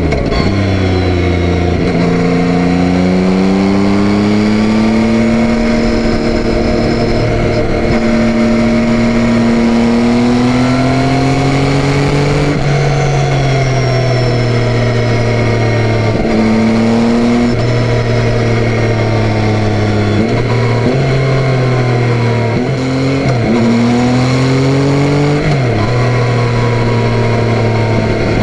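Yamaha Tracer 9's 890 cc inline three-cylinder engine under way, pulling through the gears. Its pitch climbs slowly for about twelve seconds and then drops at a gear change, holds fairly steady, and near the end dips and rises several times in quick succession.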